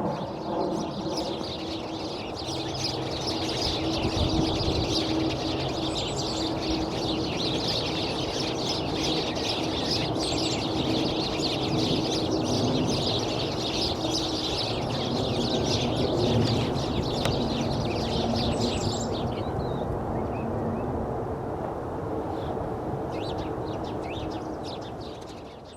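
Many birds chirping and chattering at once in a dense, continuous chorus that stops about three-quarters of the way through, over a steady low rumble.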